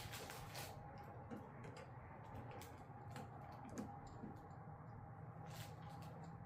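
Faint, irregular clicks and light taps of parts being handled while a tail light is fitted and its nut threaded, over a steady low hum.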